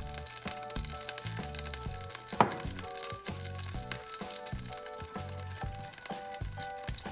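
Hot cooking oil sizzling and crackling in a ceramic-coated pot as it is stirred with a spatula, with one sharp crack about two and a half seconds in.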